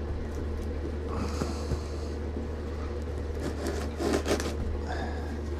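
Light scraping and rubbing with a few small clicks as a cardboard package is handled and opened, over a steady low hum.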